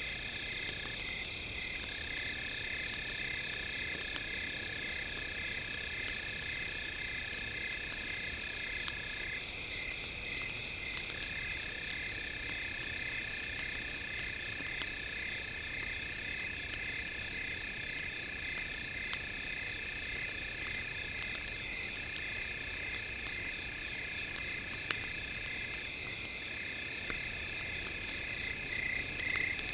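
Night chorus of crickets and other insects, several steady high trills layered together, some pulsing evenly, with faint scattered crackles from a campfire underneath.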